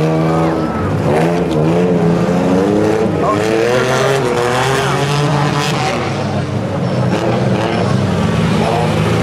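Engines of several compact demolition-derby cars racing, their pitch rising and falling over and over as the drivers accelerate and lift, over a steady bed of other engines.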